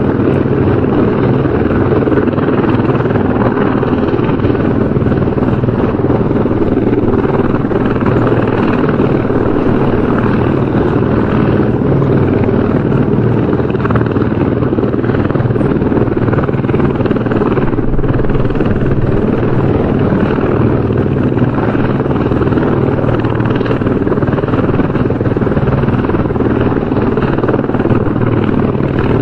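Helicopter rotor and engine running steadily, a dense unbroken drone with the most weight low down.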